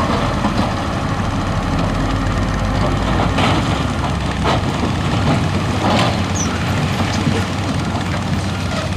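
Heavy diesel earthmoving machine running steadily, with a few sharp knocks about three and a half, four and a half and six seconds in, typical of rock and gravel being pushed.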